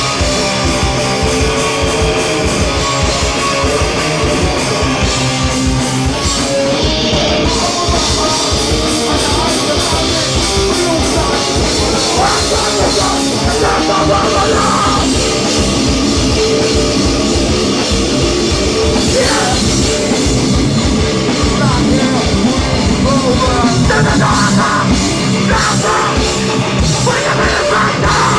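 Hardcore band playing live at full volume: distorted electric guitars over fast, dense drumming.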